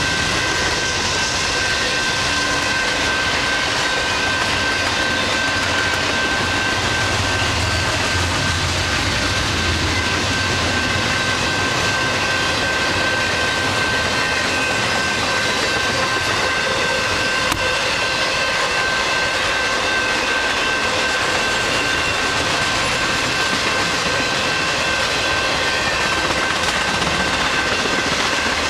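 Double-stack intermodal freight train rolling past at speed: a steady rush of wheels on rail, with a steady high whine running through it.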